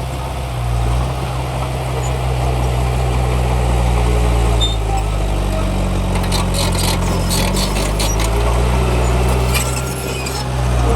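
Heavy diesel engine of an earthmoving machine running under load. Its pitch rises about four and a half seconds in and settles back down near nine seconds, with light metallic clanks and clatter in between.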